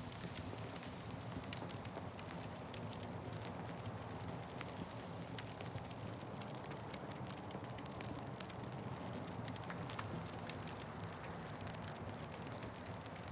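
Wood fire burning, crackling steadily with many small sharp pops over a low rumble.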